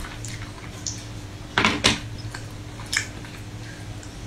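Close-miked mouth sounds of chewing ice cream: wet smacks and clicks, a quick pair about a second and a half in and another about a second later, over a steady low electrical hum.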